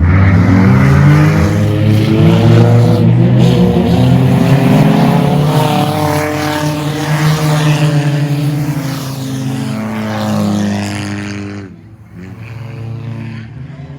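Race car engines running hard as a pack of cars passes close by, several engine notes rising and falling together. The sound drops off sharply about twelve seconds in, leaving fainter engine noise.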